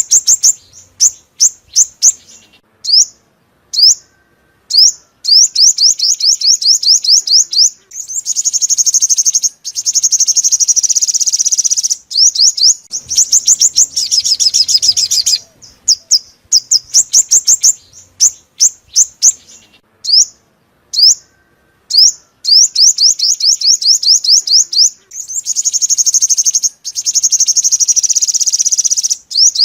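Sunbird song played as a trapping lure: rapid runs of short, high chirps, broken by brief pauses, with longer dense trilled phrases that turn buzzy.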